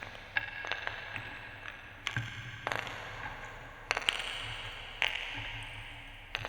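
Fingertip or nail taps on a hard object that rings briefly after each tap, in an irregular series of about ten taps with pauses of up to a second.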